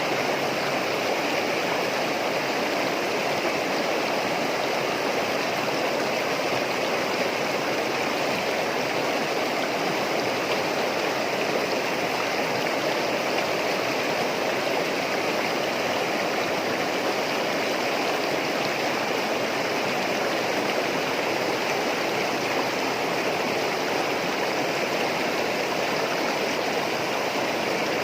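Running water babbling steadily, like a small stream, with no let-up.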